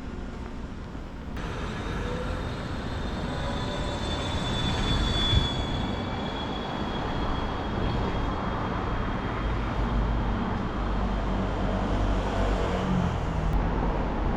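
A large vehicle passing with a rumble that grows stronger partway through, and a thin high squeal for a few seconds early on.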